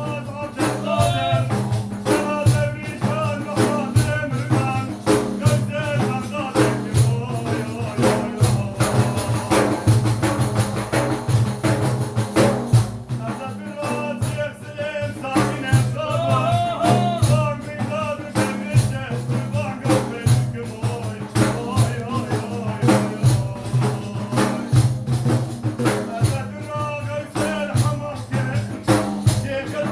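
Sufi devotional praise song (madih) sung by a male voice over a steady, rhythmic hand-percussion beat.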